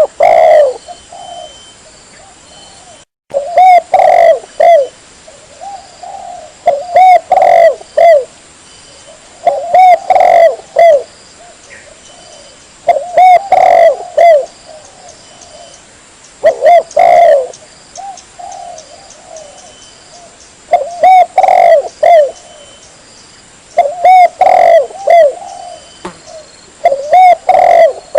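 Spotted dove (tekukur) cooing as a loud, close lure call: phrases of several hoarse coos, each phrase a second or two long, repeated about every three seconds.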